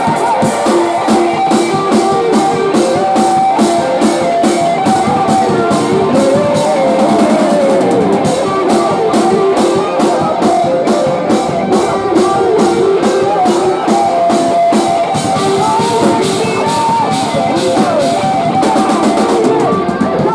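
Live post-hardcore band playing loud: electric guitars over a drum kit beating about four hits a second.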